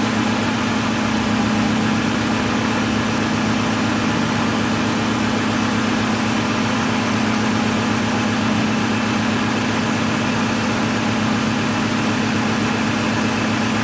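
1998 BMW 540i's 4.4-litre V8 idling steadily while misfiring on cylinder 7 (fault code 156 for injector 7), a misfire traced to a poor contact at the injector connector causing a voltage drop.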